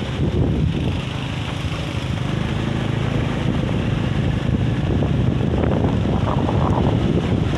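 Strong, gusty wind buffeting the microphone, a steady rumbling noise that swells a little louder after about three seconds.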